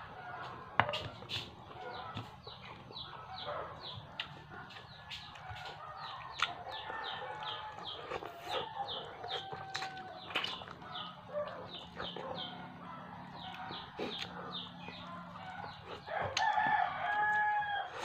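Background bird calls, likely fowl: a steady run of short, high, downward-sliding chirps, two or three a second, with a louder, longer call near the end.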